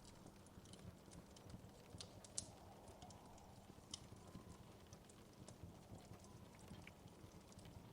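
Wood fire crackling softly in a fireplace: small irregular pops and snaps over a low steady rumble, with a sharper pop about two and a half seconds in.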